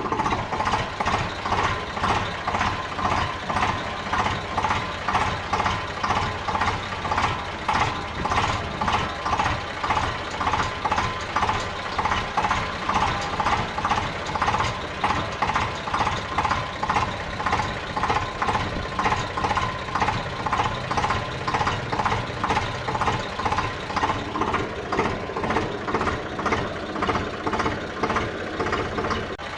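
A tractor engine idling steadily, with a regular pulse of a little under two beats a second.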